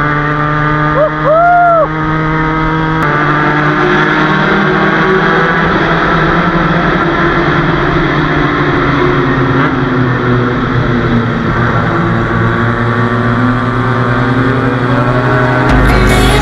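Motorcycle engine running steadily while riding, its pitch drifting gently up and down with throttle. Music with a heavy beat comes in near the end.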